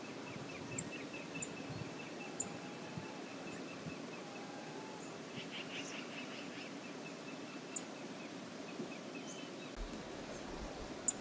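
Steady rush of river water, with a few short, high bird chirps scattered through it and a brief flurry of calls about halfway.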